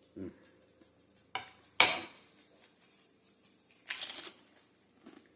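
A metal spoon clinking against a soup bowl while eating: one sharp, ringing clink about two seconds in, with lighter clicks around it. A short hiss follows about four seconds in.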